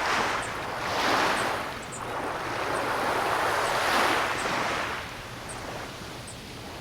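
Ocean waves breaking and washing on a shore, the surf surging up twice and then subsiding into a softer wash near the end.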